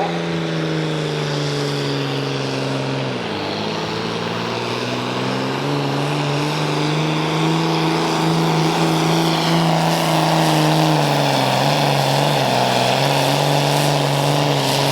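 Hot stock pulling tractor's diesel engine running flat out under load down the track. Its pitch drops about three seconds in as it lugs against the sled, climbs back, then sags again near the end.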